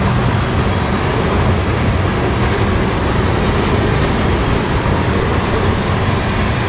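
Covered hopper cars of a freight train rolling past at close range: a steady, deep rolling noise of steel wheels on rail.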